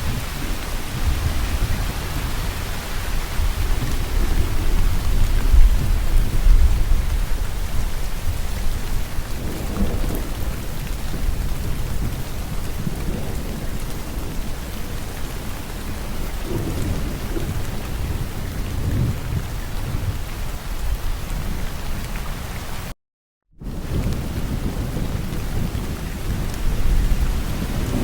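Steady heavy rainfall with low rolling thunder that swells and fades several times. The sound cuts out completely for about half a second near the end, then the rain resumes.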